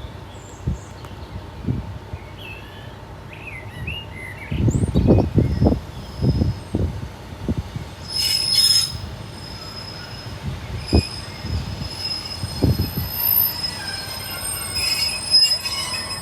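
Northern passenger train approaching and running over the level crossing, with a high, steady squeal from the wheels on the rails that sets in about halfway through. Low rumbling gusts come and go underneath it.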